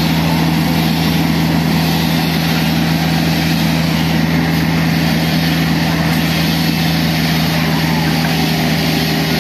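An engine running steadily at a constant speed, with a strong low hum that does not change.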